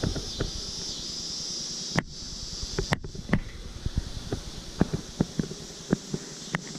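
A steady, high-pitched chirring of insects, with irregular short knocks and clicks scattered through it.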